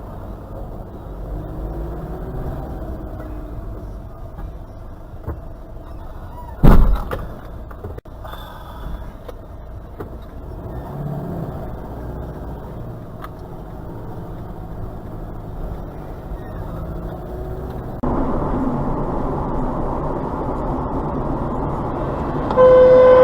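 Car driving with steady road and engine noise, broken about seven seconds in by a single loud crash impact. Near the end a car horn blasts for about a second.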